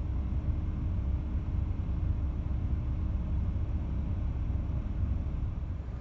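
Steady low road rumble of a moving car heard from inside the cabin, with a faint constant hum over it.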